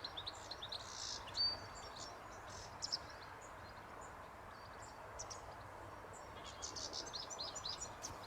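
Small birds chirping and twittering in short high calls over a steady soft background hiss, with a dense burst of chirps near the end.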